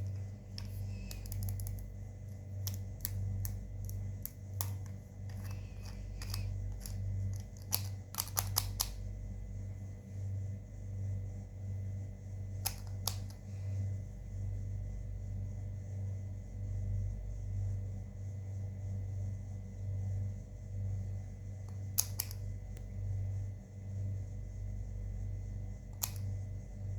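Slime being mixed: sharp sticky clicks and pops, many in quick succession in the first nine seconds and a few more later, over a steady low hum.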